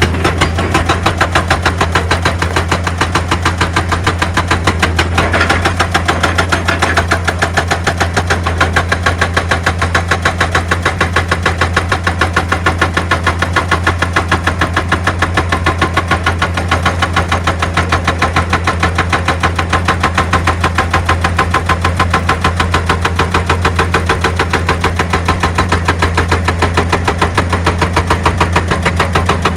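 Excavator's diesel engine running steadily with a fast, even pulsing, and a short spell of extra noise about five to seven seconds in.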